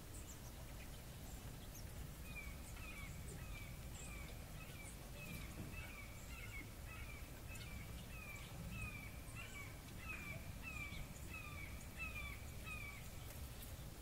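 A bird calling over and over, about two short downward-sliding notes a second, starting a couple of seconds in and stopping near the end, over a low outdoor rumble.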